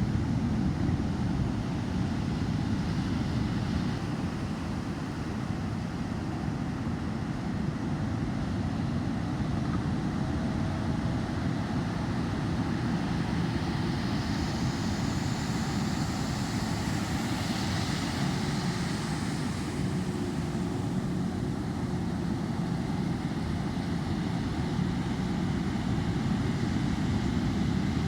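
Surf and wind noise: a steady low rumble of wind on the microphone over the sea, with a rushing hiss that builds and fades about halfway through as a wave breaks.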